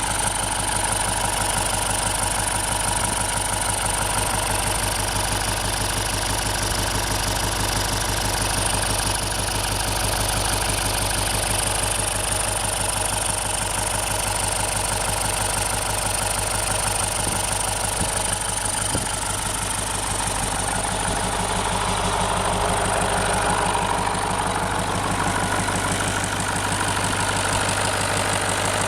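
Scania 142 V8 diesel engine in a T-150K tractor idling steadily, warming up after a cold start at −7 °C.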